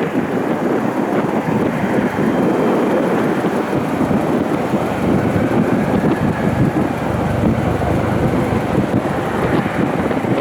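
Bombardier CRJ900 regional jet's engines on its landing approach: a steady loud rushing noise, with a faint engine whine that rises and falls in the middle.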